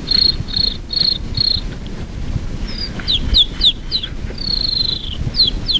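A person imitating a cricket by mouth: four evenly spaced high chirps. After a short pause comes a run of quick, high, downward-gliding whistles, with one longer falling whistle in the middle.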